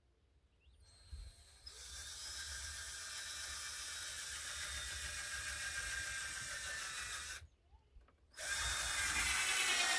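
Power drill driving a screw into the wood of a door header in two runs: a long steady run of about six seconds, a pause of about a second, then a shorter run near the end as the screw is driven home.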